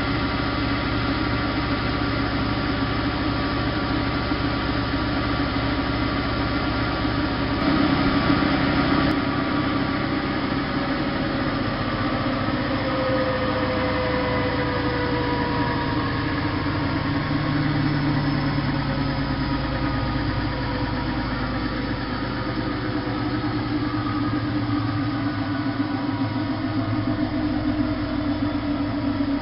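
Bosch WFK 2431 front-loading washing machine running, a steady mechanical hum with motor tones that slide slowly in pitch now and then. It grows a little louder briefly about eight seconds in.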